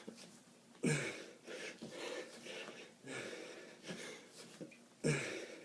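A man breathing hard from exertion during kettlebell reps, with sharp, partly voiced exhalations about once every two seconds and wheezy breathing between them.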